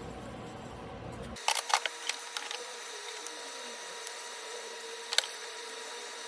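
A handful of short, sharp clicks and taps: a quick cluster about a second and a half in, then single ones near the end, over a steady hiss.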